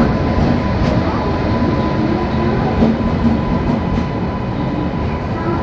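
Locomotive and train rolling slowly past at close range: a steady, heavy rumble of the engine and wheels on the rails, with a thin steady whine over it and a few light clicks.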